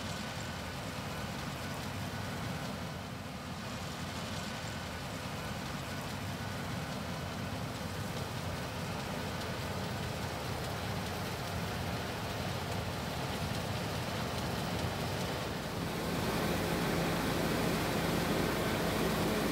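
Combine harvester running steadily: a low engine hum under an even rushing noise, growing somewhat louder near the end.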